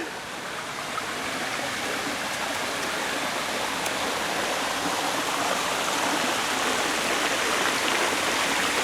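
Waterfall rushing, a steady spread of splashing water that grows steadily louder as it is approached.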